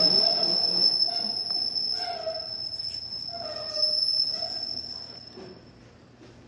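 Passenger train rolling into the station with a steady high-pitched squeal and lower, wavering wheel squeals. The sound fades away about five seconds in.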